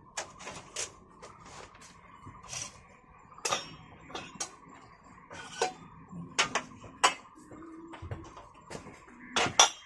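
Dishes and utensils clinking and knocking: a dozen or so sharp taps at irregular intervals, the loudest near the end.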